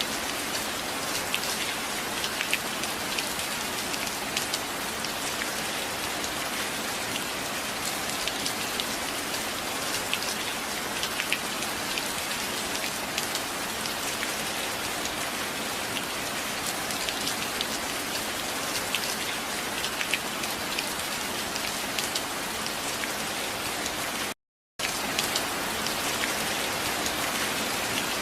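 Steady heavy rain, with many small individual drop hits ticking through it. It cuts out completely for a split second near the end, then resumes.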